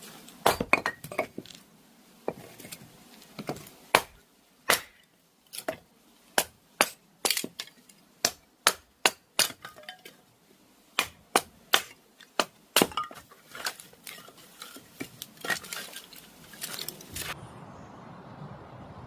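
Firewood being split and handled: a long, irregular run of sharp wooden knocks and cracks, at times about two a second. It stops abruptly near the end.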